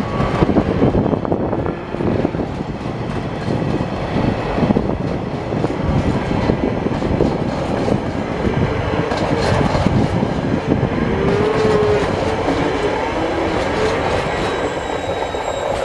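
Empty flat container wagons of a freight train rolling past: a steady rumble and clatter of steel wheels over the rail joints, easing slightly as the last wagon goes by near the end.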